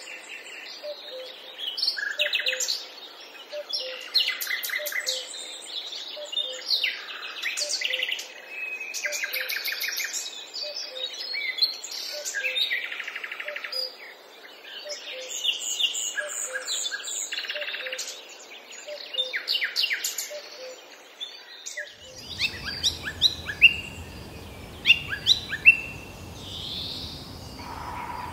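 Several wild birds chirping and singing with overlapping short calls and trills, and a faint low note repeating about twice a second beneath them. About 22 seconds in, a steady low background hum or rush joins the birdsong.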